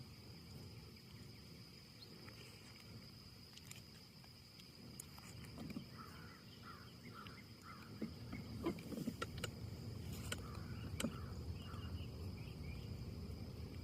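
Wind blowing through trees, growing stronger about eight seconds in, with a few sharp clicks and scattered short chirps over a steady high-pitched hum.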